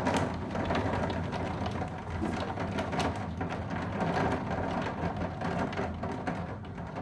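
Heavy storm rain pelting a hard surface, a dense, steady hiss full of many sharp irregular hits.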